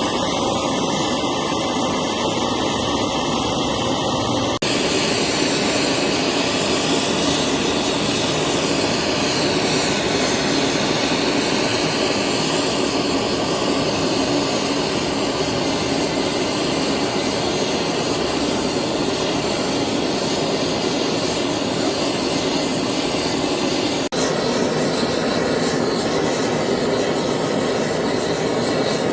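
Steady, loud machinery noise, in three stretches split by abrupt cuts about four and a half seconds in and near the end.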